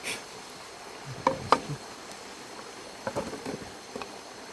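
A few light knocks and clicks of camp cooking gear being handled, loudest about a second and a half in. Beneath them is a steady faint background of insects.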